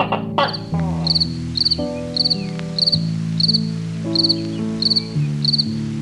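Insect chirping: a short trilled chirp, high-pitched and repeating evenly about twice a second, over background music of held low notes.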